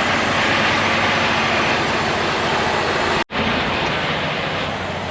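Semi truck running, a steady engine with wide-spread noise. Just over three seconds in, the sound cuts out for an instant and comes straight back.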